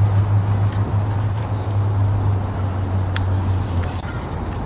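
A few short, high, thin calls from a parent robin alarmed at its nest, one of them sliding down in pitch, over a steady low rumble.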